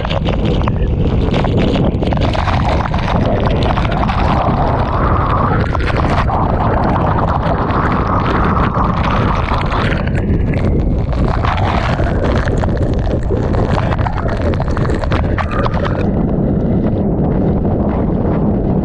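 Typhoon eyewall wind blasting across the microphone with torrential rain and spray lashing down, a loud, unbroken rush full of crackling hits. About sixteen seconds in the sound turns duller, losing much of its hiss.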